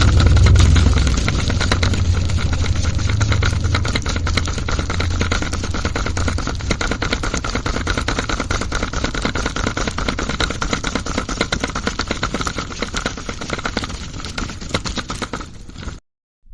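Small electric motor of a miniature model machine running, with a fast, dense rattle and a steady whine. A low hum fades after the first few seconds, and the sound cuts off suddenly near the end.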